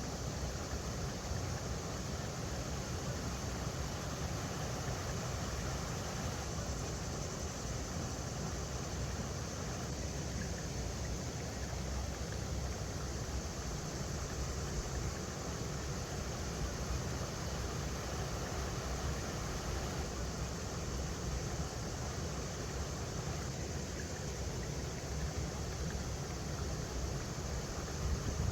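River water running over rocks: a steady, unbroken rush.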